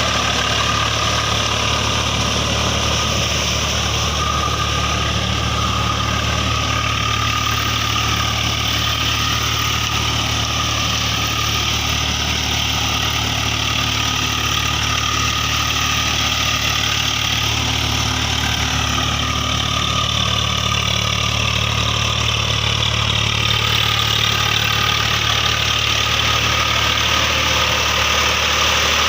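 Tractor diesel engine running steadily at low revs, an even low hum with no sudden changes.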